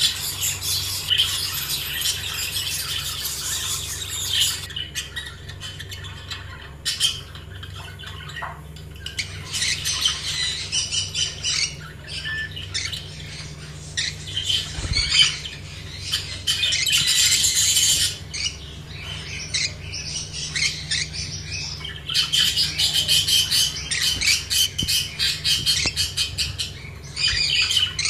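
Flock of caged budgerigars and lovebirds chattering and squawking. The chatter comes and goes in dense stretches a few seconds long, over a steady low hum.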